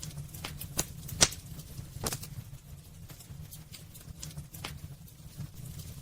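Wood fire burning in a fireplace: irregular sharp crackles and pops over a steady low rumble of the flames, the loudest pop about a second in.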